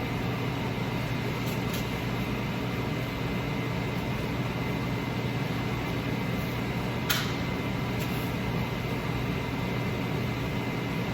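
Steady machine hum and hiss, like a fan or air-conditioning unit running, with one sharp click about seven seconds in.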